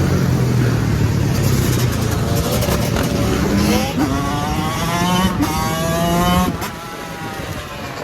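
Motorcycle engines running, then one revving up in several rising-pitch pulls from about four seconds in. The revving breaks off about six and a half seconds in and the sound gets quieter.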